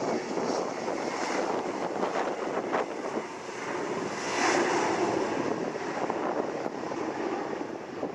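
Jet airliner engines running at high power, mixed with gusty storm wind buffeting the microphone: a steady rush that swells and eases, loudest about halfway through.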